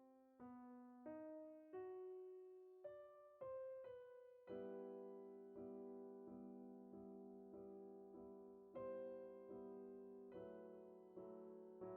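Quiet background piano music: a few single notes, then gently repeated chords about every half second from about four seconds in.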